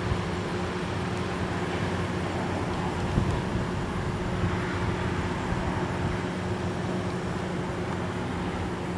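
MARC push-pull commuter train, cab car leading, rolling slowly into the platform and coming to a stop, with a steady low hum and even rumble throughout.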